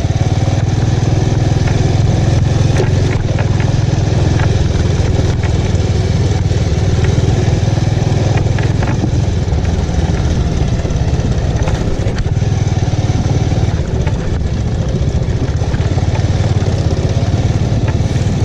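Bajaj Avenger motorcycle's single-cylinder engine running steadily while riding along at an even pace.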